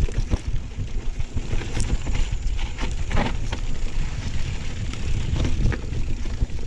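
Mountain bike ridden over a rough dirt trail: a continuous low rumble of tyres on the ground, broken by uneven knocks and rattles from the bike.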